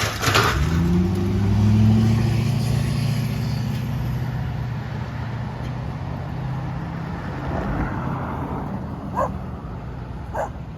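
An engine speeding up, its pitch rising over the first two seconds and then running steadily as it slowly fades. A sharp knock sounds at the start and two short knocks come near the end.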